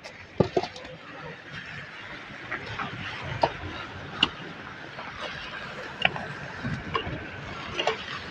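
Irregular sharp knocks and clinks of masonry work, such as a trowel striking bricks and mortar, about one every second over a steady background hiss.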